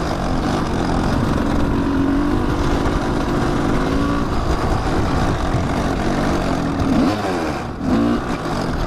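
Kawasaki dirt bike engine running on the trail, its pitch rising and falling with the throttle, with a quick rev climbing about seven seconds in, over a heavy low rumble.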